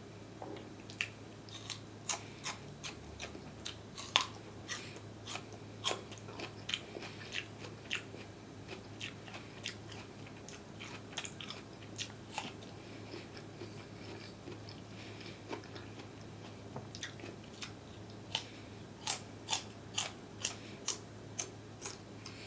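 Close-up chewing of crunchy food: a string of sharp, crisp crunches with wet mouth sounds, settling into about two bites a second near the end. A faint steady low hum runs underneath.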